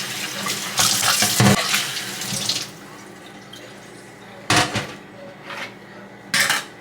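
Kitchen tap running hard into a sink for a couple of seconds, then shut off, followed by two short clatters.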